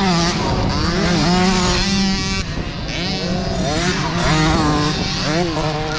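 Several small 50cc two-stroke youth dirt bikes racing together, their engines revving up and down and overlapping as they ride through the sand.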